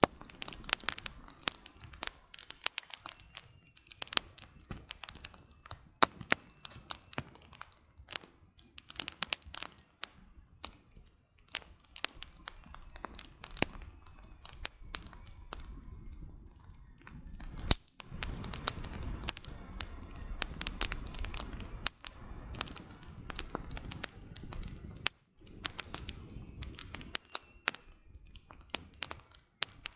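Wood fire burning, with frequent sharp, irregular crackles and pops over a soft rushing of flames that grows a little louder partway through.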